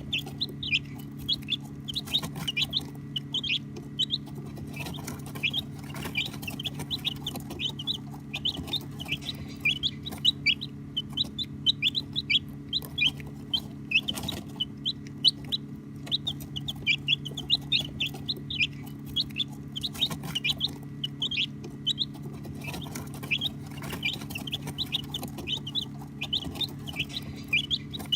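A brood of baby chicks peeping nonstop: many short, high, downward-sliding peeps overlapping, over a steady low hum.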